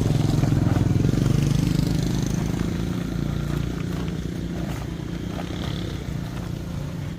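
A small engine running with a low, even pulse, loudest near the start and fading over the next few seconds.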